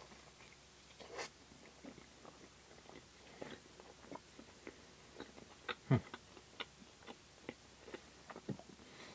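A man biting into and chewing a cream-topped pastry close to the microphone: faint, scattered wet mouth clicks and chewing, with one sharper, louder click about six seconds in.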